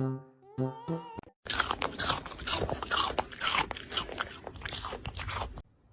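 Close-up crunching and chewing of crisp food: a rapid run of loud crunches lasting about four seconds, then a sudden stop. It follows a few plucked music notes in the first second.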